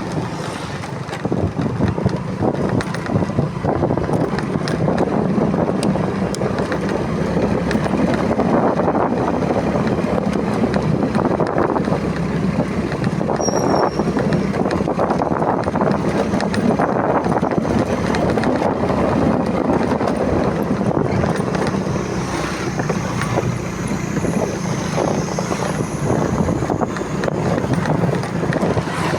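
Motorcycle riding along, its engine running steadily under a constant rush of wind over the microphone.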